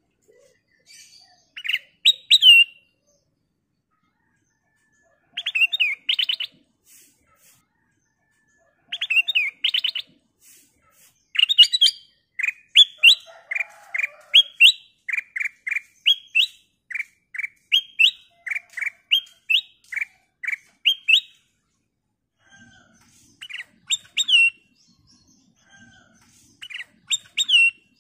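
Black-crested bulbul (kutilang emas) singing: bright, chirping phrases in short bursts with pauses between them, and a longer run of quick, evenly repeated notes in the middle.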